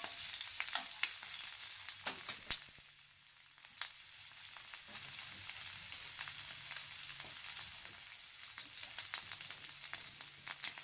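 Raw shrimp, garlic and onion frying in hot oil in a nonstick pan: a steady sizzling hiss with frequent small crackles and pops. A plastic spatula stirs the pan at the start, and the sizzle drops briefly about three seconds in.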